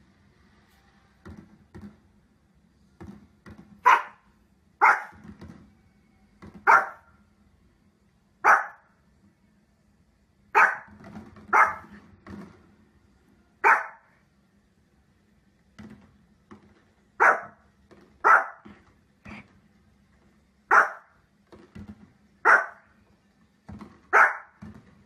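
A small fluffy dog barking: about a dozen sharp barks, spaced irregularly one to two seconds apart, beginning about four seconds in, with fainter low thuds in between.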